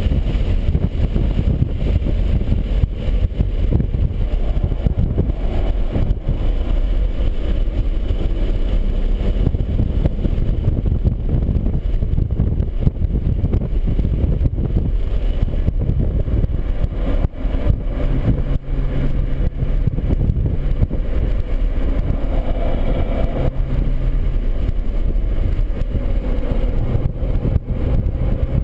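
BMW 135i's turbocharged straight-six engine running under way, with heavy wind and road noise. From about 18 seconds in, the engine note settles into a steadier low tone that changes pitch a few times.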